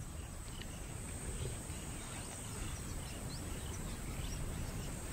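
Outdoor bush ambience: a steady low rumble with a faint, steady high insect whine. Faint short rising bird chirps come about once a second.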